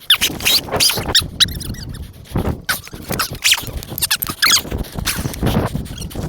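Thick, sticky mud squelching and squeaking as it is trodden and pushed through, in rapid irregular bursts.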